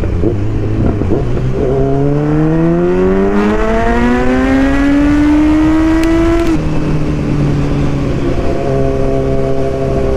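Kawasaki Z900 inline-four engine pulling hard, its pitch rising steadily for about five seconds, then dropping suddenly as the throttle is closed and running on at a steady lower pitch, with wind noise on the microphone.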